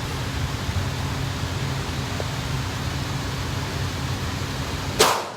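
Steady rushing noise with a low hum, then a single gunshot near the end.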